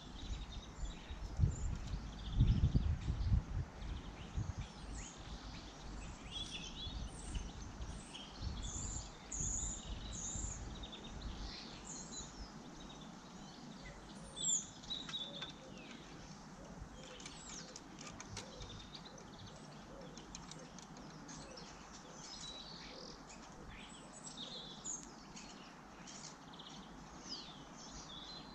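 Garden birds chirping and tweeting, many short high calls overlapping. A low rumble sits under them for the first ten seconds or so, then fades.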